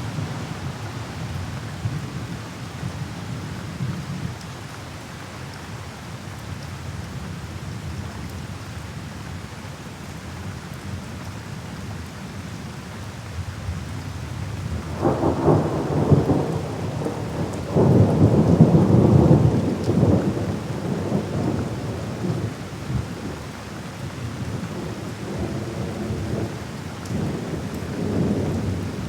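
Thunderstorm: steady rain with rolling thunder, the loudest peals about halfway through and swelling again near the end.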